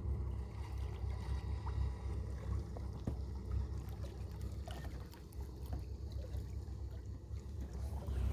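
Steady low rumble of wind and water around a small fishing boat on a lake, with a few faint knocks.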